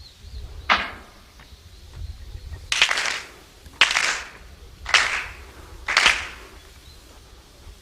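Footsteps crunching on a gravel path, five steps at an unhurried walking pace.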